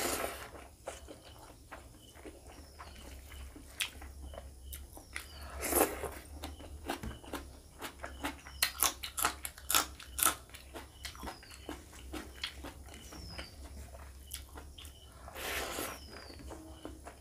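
Close-up eating sounds: a man chewing mouthfuls of rice and curry eaten by hand, with wet mouth smacks and clicks that come in a quick run about nine to ten seconds in. Three longer noisy swells stand out, near the start, about six seconds in and near the end.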